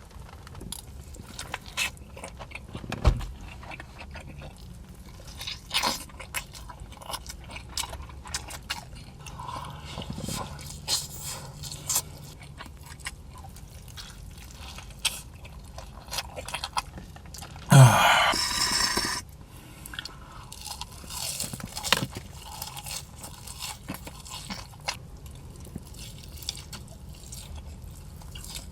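A person chewing and biting crunchy food close to the microphone, with irregular crunches and wet mouth clicks. About two-thirds of the way in there is one louder, longer sound lasting about a second and a half.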